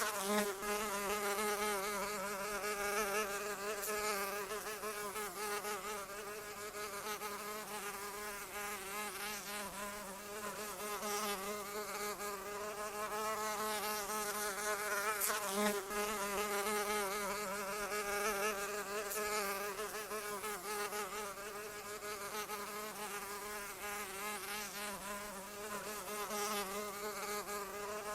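Flying insect buzzing continuously, its pitch wavering up and down as it flies.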